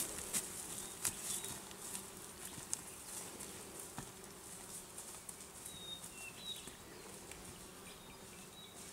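Flies buzzing with a steady low drone, while footsteps crackle through forest undergrowth, thinning out as the walkers move away. A few faint high chirps about six seconds in.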